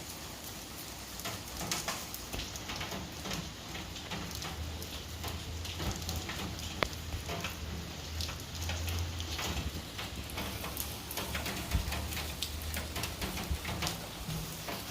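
Light rain falling, with scattered drops tapping sharply on nearby surfaces and a few louder single drop hits. A low hum swells and fades in the middle.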